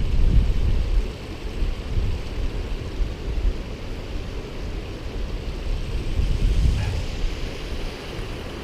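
Steady rushing of a river and waterfall, with wind buffeting the microphone as a low rumble that is heaviest in the first second.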